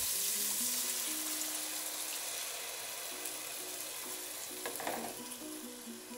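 Diced vegetables frying in hot oil in a pan, sizzling steadily; as the guajillo chile sauce goes in, the sizzle gradually dies down. Quiet background music with slow single notes.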